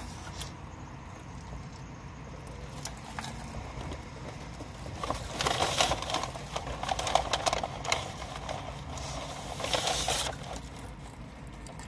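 A person chewing a mouthful of burger close to the microphone: clicky, wet chewing sounds, loudest in two spells about five to seven seconds in and again around ten seconds in.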